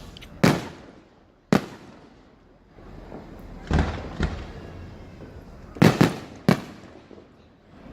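Aerial fireworks bursting: about seven sharp booms at uneven intervals, each trailing off in an echo, with two or three coming in quick succession near the end.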